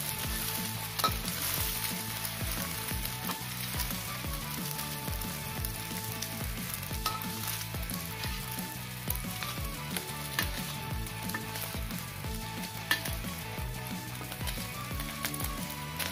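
An egg frying in hot oil in a steel wok, sizzling steadily, with a metal ladle-spatula clicking and scraping against the pan now and then as it is pushed around.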